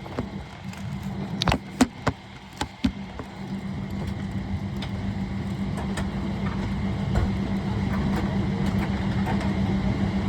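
Steady cabin hum of a Boeing 777-300ER parked at the gate: a low rumble with a constant low tone, growing slightly louder over several seconds. A few sharp clicks sound about one and a half to three seconds in.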